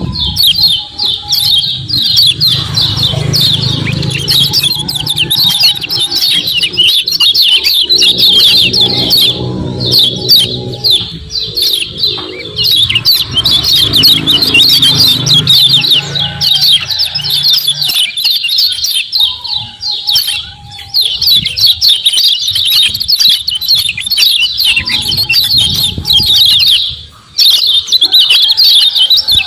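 Yellow white-eyes (kecial kuning) chattering in a fast, unbroken stream of high chirps, the 'ciak ciak' call used as a lure to set kept white-eyes singing. It breaks off briefly near the end, and a low rumble runs underneath in the first half.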